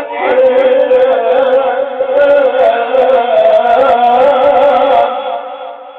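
A man's unaccompanied Quranic recitation voice holding one long, drawn-out melodic note with a wavering ornamented pitch, which trails away after about five seconds.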